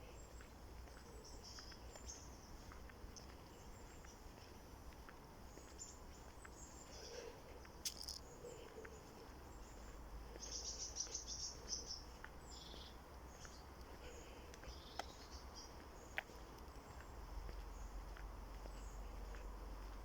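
Faint outdoor nature ambience: high chirping of insects and birds comes and goes, busiest about halfway through, with a couple of sharp clicks.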